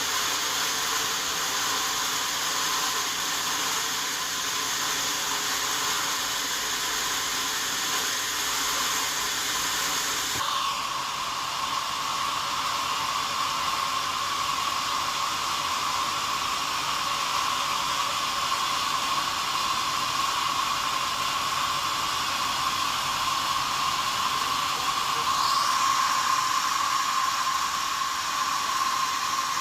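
Sawmill saw and machinery running steadily with a continuous hiss. About ten seconds in, the highest hiss drops away and a steady high hum takes over.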